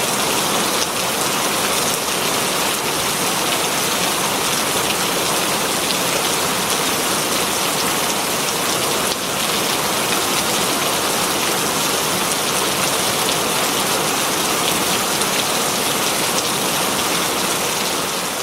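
Very heavy rain falling steadily on green leaves, a dense, even patter with no let-up.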